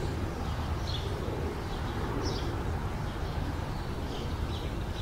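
Outdoor background: a steady low rumble with short, high bird chirps scattered through it.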